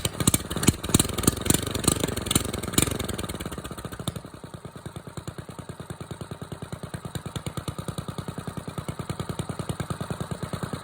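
Diesel engine revved with a few throttle blips, the revs falling away, then settling to a steady idle about four seconds in.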